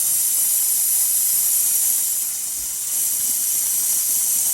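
Steady, high-pitched hiss of air or spray released under pressure, dipping slightly partway through, while brake fluid is cleaned up after bleeding a motorcycle front brake.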